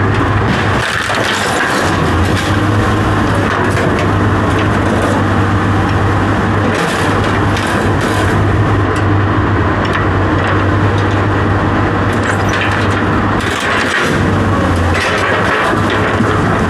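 A steady machine or engine running with a constant low hum, with many short knocks and cracks over it.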